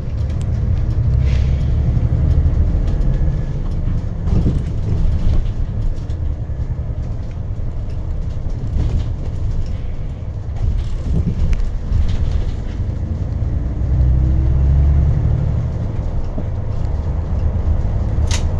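Bus cabin road noise: a steady low rumble of engine and tyres, with scattered light rattles and clicks. A faint rising whine comes in over a couple of seconds past the middle, and a sharp click sounds near the end.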